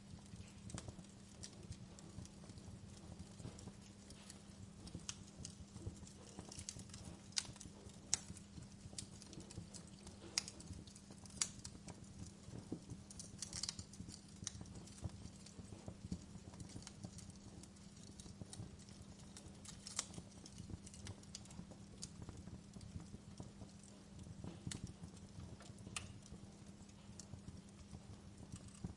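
Wood fire burning: irregular crackles and sharp pops of burning wood, a few louder snaps among them, over a low steady rumble.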